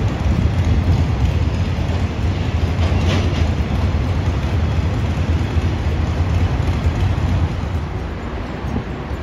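A train passing close by: a steady, heavy rumble that starts to die away in the last second or two.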